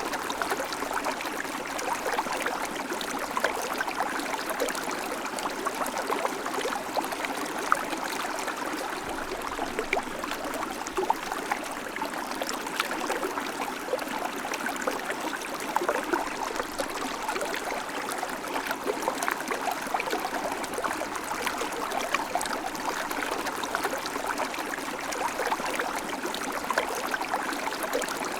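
River water flowing over rocks: a steady rushing and babbling with small splashes throughout.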